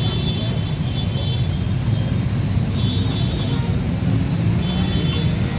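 Traffic engines running in a steady low rumble, with brief high-pitched tones sounding a few times.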